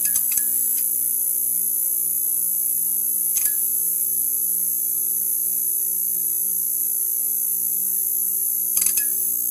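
Neon sign buzzing: a steady electrical hum under a high hiss, with a few short crackles near the start, one about a third of the way in and two near the end.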